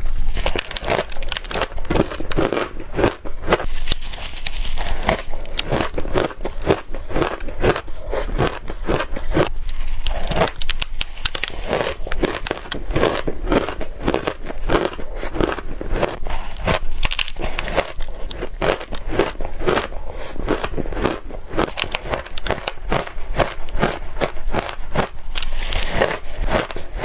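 Powder-mixed ice cubes being bitten and crunched between the teeth: dense, crackly crunching, many cracks a second, continuing without pause.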